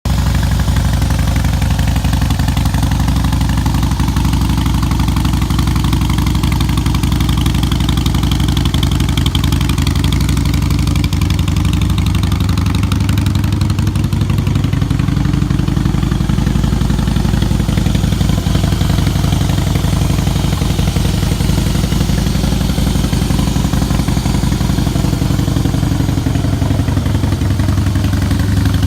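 2016 Harley-Davidson Breakout's 1690cc V-twin running at idle through Vance & Hines Big Radius aftermarket exhausts, a steady deep exhaust note, with the engine speed lifting slightly around halfway.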